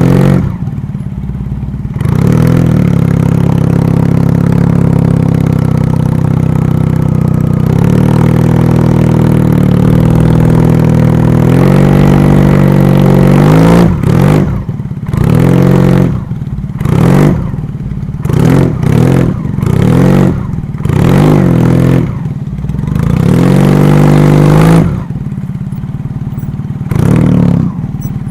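A vehicle engine held at high revs for about twelve seconds, then revved in a string of short bursts with brief drops between them, and one last rev near the end.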